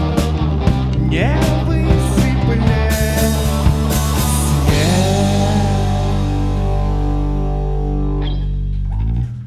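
Live rock band playing the final bars of a song: drums and electric guitars for about five seconds, then a last held chord rings out and is cut off about nine seconds in.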